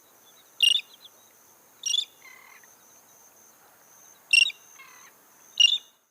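A tern calling: four short, sharp, high calls a second or more apart, with fainter calls between them.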